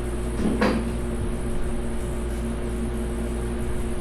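Steady workshop hum with one short knock or scrape about half a second in, from work on the engine during teardown.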